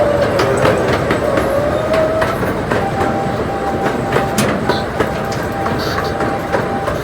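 Zoo ride train running along its track, a steady clatter with wheels clicking over the rail joints. A thin steady whine joins about three seconds in.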